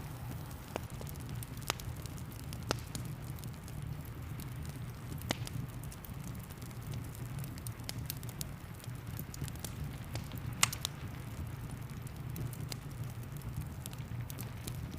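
Fireplace fire crackling, with scattered sharp pops over a steady low rumble, the loudest pop about ten and a half seconds in; rain patters along underneath.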